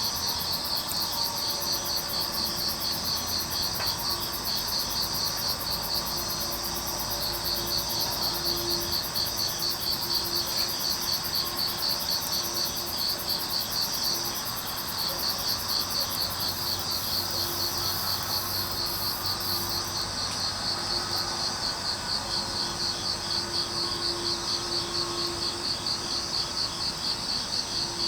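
Field crickets and other grass insects chirping in a steady, pulsing chorus. A second, higher-pitched insect trill drops out about two-thirds of the way through.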